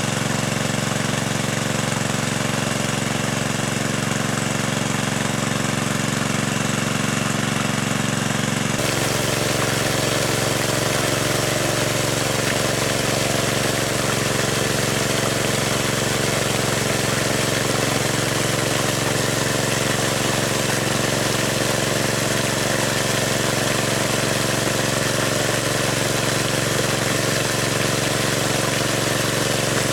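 A small engine running steadily, its tone shifting abruptly about nine seconds in.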